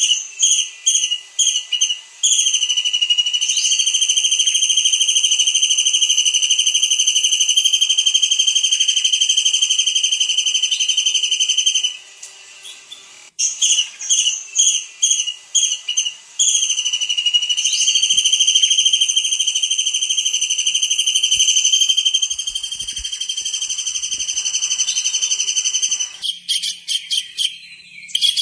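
Tengkek udang (small kingfisher) calling: a run of short, high, sharp notes leads into a long, shrill, steady trill held for about ten seconds. The phrase comes twice, and rapid choppy notes follow near the end.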